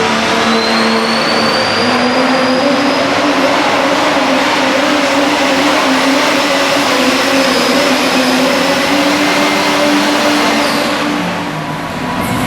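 Super stock diesel pulling truck running under full load down the track, its engine loud and steady with a high turbocharger whistle that rises in pitch over the first few seconds. The sound eases off near the end.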